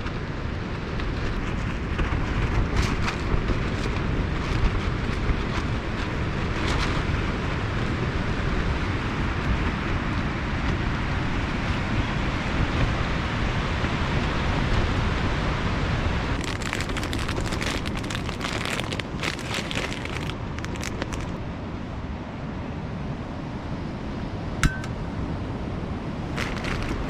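Strong gusty wind and heavy rain as a steady rushing noise, with scattered taps and clicks and one sharp clink near the end.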